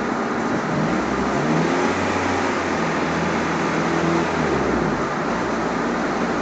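Turbocharged Honda H22A VTEC four-cylinder engine running on a chassis dyno, over a dense steady mechanical din. Its note rises about a second and a half in, holds steady, then drops about four and a half seconds in.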